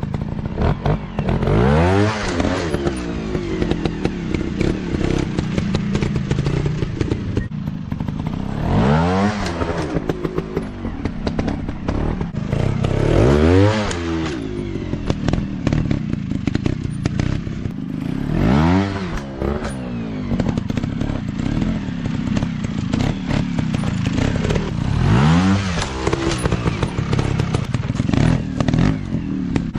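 Dirt bike engines revving up and falling back over and over, about six surges in all, with clattering and scraping over rough ground.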